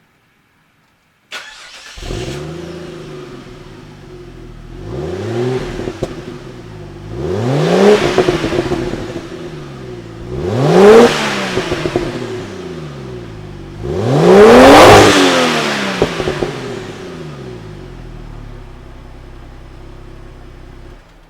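Ford FG Falcon G6E Turbo's turbocharged 4.0-litre inline-six exhaust, through its factory centre muffler: the engine note comes in suddenly about a second in, settles to idle, and is blipped four times, each rev rising and falling, the last two the loudest, before it returns to a steady idle.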